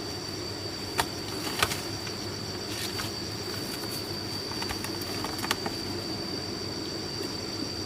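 Steady high-pitched insect drone over a low rumbling hum, with a few sharp knocks: one about a second in, one shortly after, and one near five and a half seconds.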